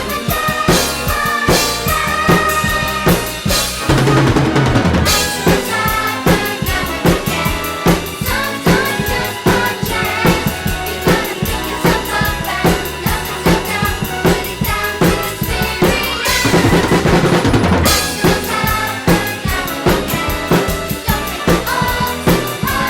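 Acoustic drum kit played along to a recorded song, with a steady beat on kick and snare, fills and rolls, and two long cymbal crashes, one about four seconds in and one about sixteen seconds in.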